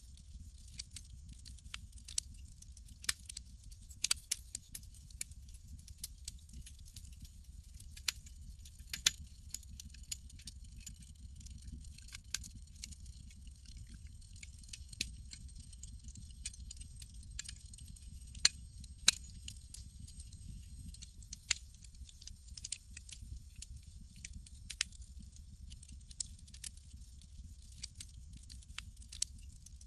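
Campfire crackling: irregular sharp pops and snaps, a few louder than the rest, over a steady low rumble and a faint high hiss.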